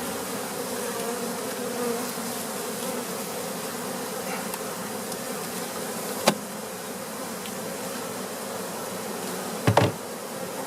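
Steady buzzing of a large number of honey bees around an open hive. A sharp click comes about six seconds in and a short knock near the end, from handling the hive.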